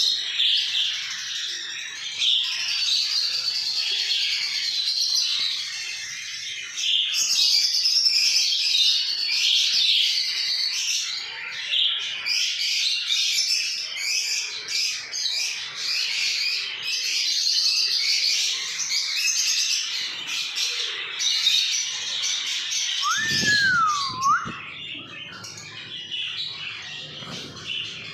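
Australian parrots chirping and chattering in dense, overlapping calls with no break. About 23 seconds in, a single clear whistle rises and then falls.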